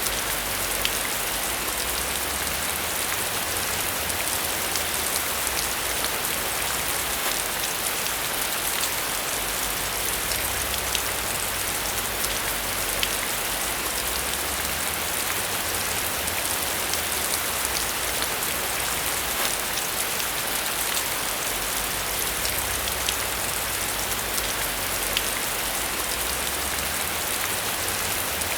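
Steady rain falling, a dense even hiss with many individual drops ticking through it, over a faint low rumble.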